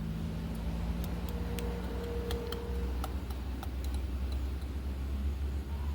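A steady low hum with a few light, scattered clicks and taps from small objects being handled.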